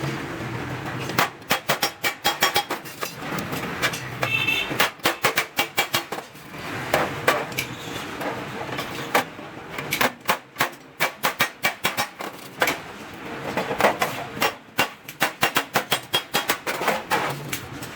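Hand hammer striking stainless steel sheet in quick runs of blows, about four a second, with short pauses between runs; one run near the start gives a brief metallic ring.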